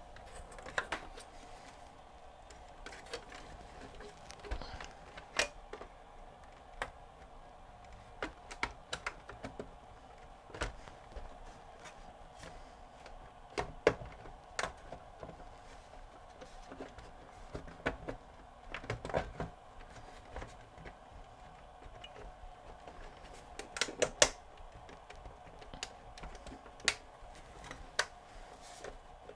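Irregular light clicks and knocks, one to a few a second and unevenly spaced, over a faint steady hum.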